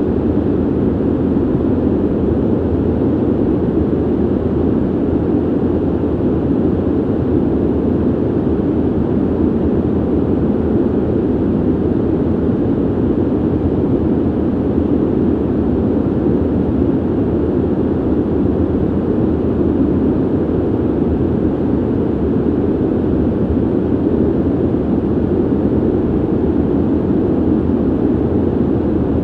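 Ventilation system running: a steady, even rush of air, low-pitched with little treble.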